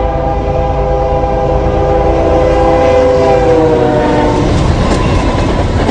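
Locomotive air horn sounding one long blast over the loud rumble of a moving train. The horn dips slightly in pitch and stops about four seconds in, while the train's rumble carries on.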